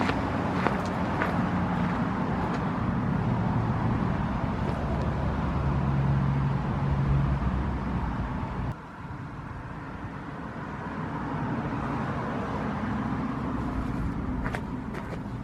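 Road vehicle engine running, a steady low hum with a few scattered clicks; it drops suddenly in level about nine seconds in and goes on more quietly.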